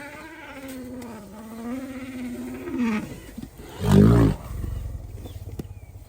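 Asian elephant vocalizing: a long, wavering, trumpet-like call lasting about three seconds, then a short, loud, low blast about four seconds in. The call sounds almost like an African elephant's trumpet.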